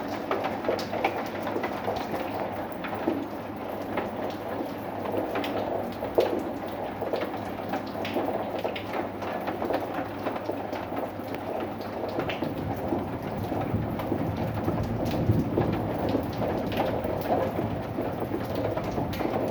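Steady rain falling, with many sharp drop ticks hitting a surface. A low rumble, likely thunder, builds in about the second half.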